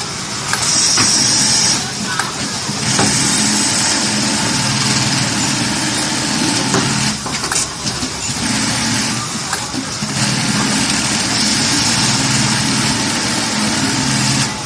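V-2210ATB-NY automatic eyelet buttonhole sewing machine running through its cycle: a steady machine hum with a high hiss over it, in stretches of a few seconds broken by short pauses.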